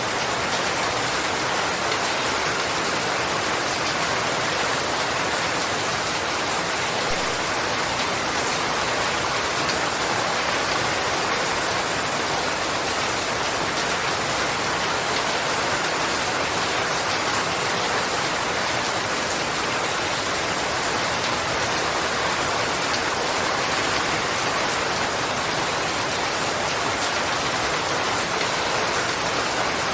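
Steady rain falling, a constant even hiss of drops on surfaces with no breaks or changes in strength.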